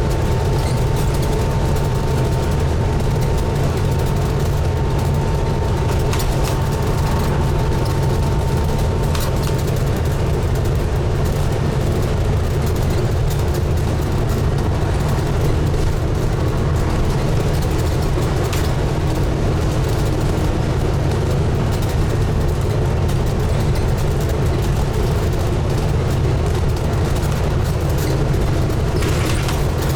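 Scania N250UD double-decker bus running on the road, heard from on board: a steady low diesel engine rumble with road and body noise. A thin steady whine sits over it and fades out about nine seconds in.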